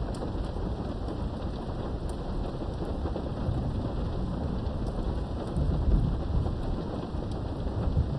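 Thunderstorm heard from behind a window: steady rain with faint scattered drop ticks, and a low rumble of thunder swelling about six seconds in.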